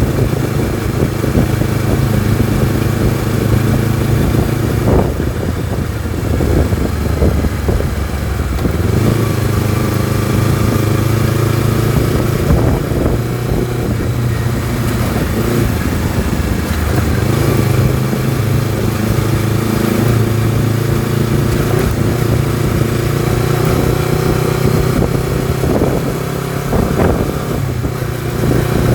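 Honda CBR250RR parallel-twin engine and exhaust running under way, its pitch rising and falling a few times with throttle and gear changes.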